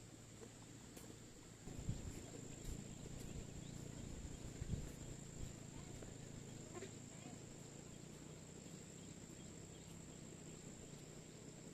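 Faint insects chirring in a steady high drone, with a few soft low thumps and rustles in the first half.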